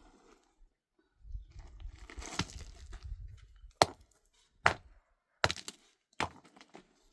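A couple of seconds of rustling and scraping, then four sharp blows, about one every 0.8 seconds.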